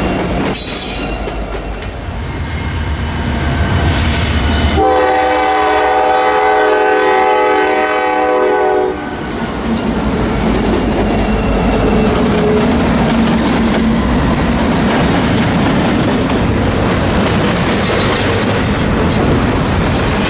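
A passing train rumbling and clattering over the rails, with a multi-chime locomotive air horn sounding one long chord of several notes at once about five seconds in; the horn lasts about four seconds and cuts off sharply while the train noise runs on.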